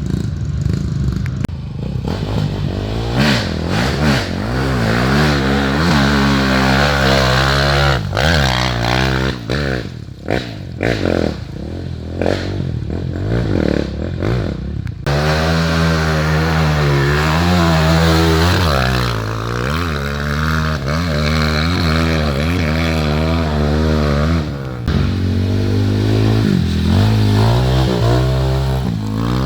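Off-road trail motorcycle engines revving up and down again and again, the pitch rising and falling, with some clattering. The sound changes abruptly twice.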